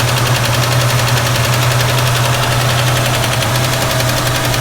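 1967 Ford Mustang engine idling steadily while it warms up, with a fast, pronounced valve tick running through the idle.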